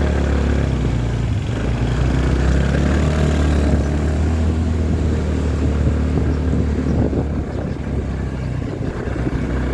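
Motorbike engine running steadily while riding, a low even hum under a constant rushing noise.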